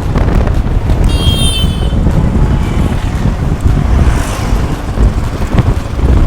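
Wind buffeting the microphone over a steady low vehicle rumble, as when riding on the move. A brief high squeal sounds about a second in.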